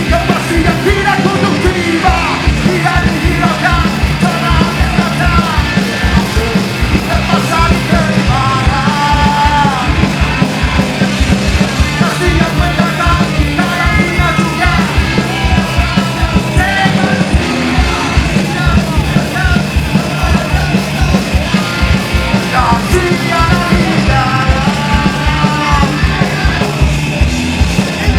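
Live punk rock band playing a fast, loud song, drums and bass driving a quick steady beat under yelled singing.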